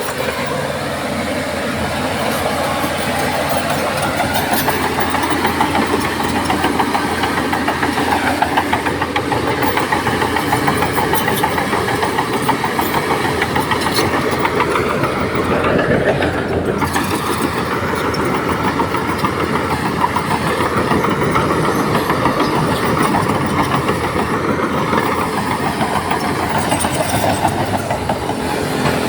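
Heavy diesel earthmoving machinery running steadily under load, with a brief change in the engine note about halfway through.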